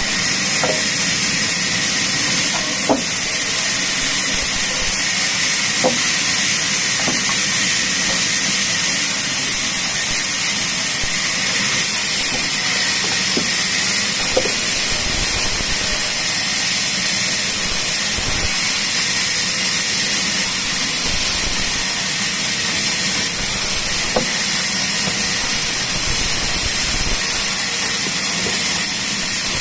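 Power saw cutting teak wood, a steady loud hissing noise with a few faint ticks scattered through it.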